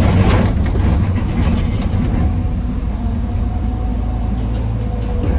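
Heavy diesel machinery running steadily with a deep rumble, with a burst of clattering in the first half-second and lighter rattles about two seconds in.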